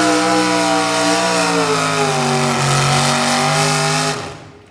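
Super stock two-wheel-drive pulling truck's engine running hard at high revs. The engine speed sags about two seconds in, then holds, and the sound fades away quickly near the end.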